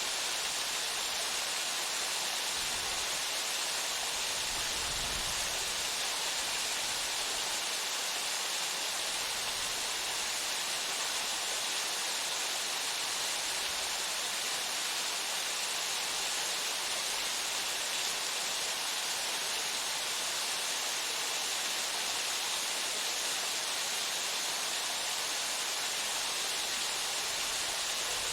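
A waterfall's water plunging steadily, a constant even rush that is strongest in the upper range and does not change.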